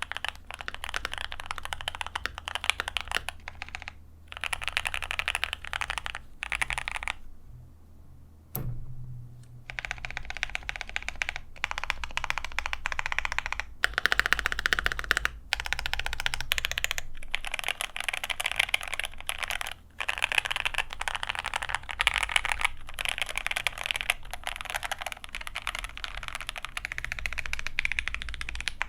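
Typing test on a GOK 7V 75% mechanical keyboard with lubed H1 switches, PBT keycaps and a polycarbonate plate, fitted with case foam and the electrical-tape mod under the PCB: continuous runs of quick key presses with a brief pause about a third of the way through.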